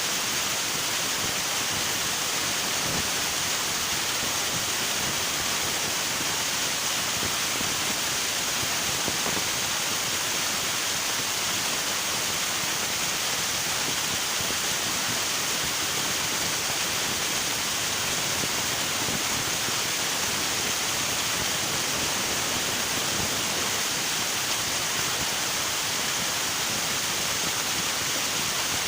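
Steady rushing of a river, a constant even hiss of flowing water with no let-up.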